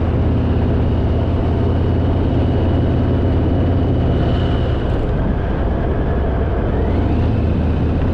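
Harley-Davidson V-twin motorcycle engine running steadily under way, heard from the bike with road and wind noise, easing slightly a little past the middle.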